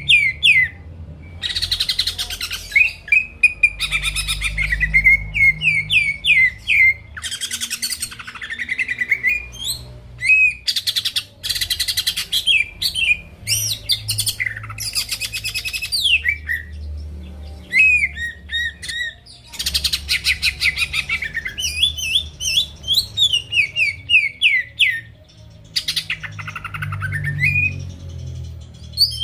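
Cucak ijo (green leafbird) singing vigorously: quick runs of sharp sweeping chirps alternating with dense, buzzy trilled bursts, phrase after phrase with short breaks between.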